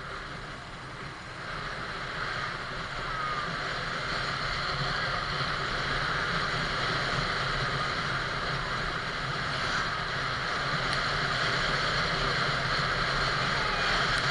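Motorcycle on the move: steady wind and road noise over a low engine hum, slowly getting louder.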